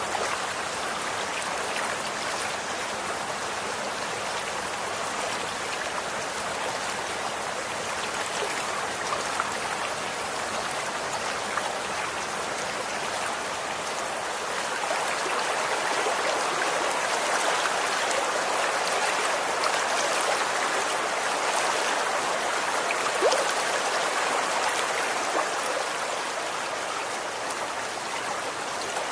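Running water flowing and splashing steadily, like a stream over stones, with small droplet splashes; it swells a little about halfway through.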